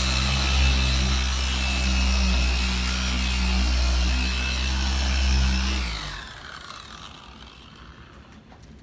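Electric buffer running steadily while polishing car paint, then switched off about six seconds in, its whine falling away as it spins down.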